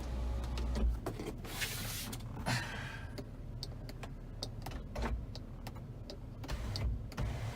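Power sunroof motor in a 2002 Chevy Avalanche's cabin running as the sunroof slides open, a steady mechanical drive with scattered clicks and a louder hissing stretch about two seconds in.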